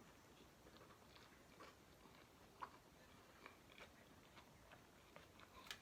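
Very faint chewing: soft, irregular mouth clicks as a person eats, over near-silent room tone.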